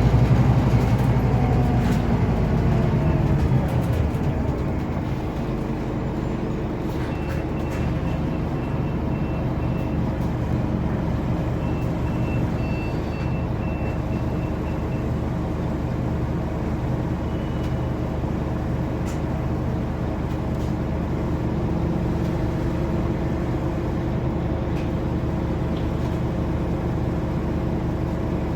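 Scania OmniCity city bus engine heard from inside the bus, its revs falling over the first few seconds as the bus slows, then running steadily at idle. Faint high beeping comes in two short runs partway through.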